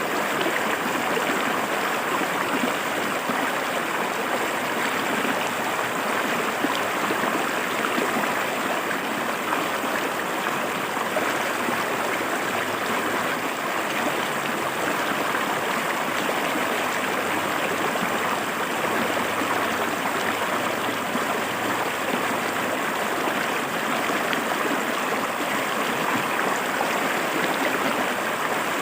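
River water flowing and splashing over rocks, a steady, even rushing and gurgling.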